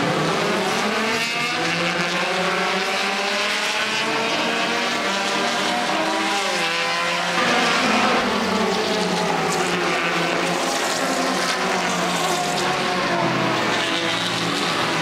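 A field of touring race cars running at racing speed: several engines overlapping, their pitches climbing and dropping as they accelerate and shift gears.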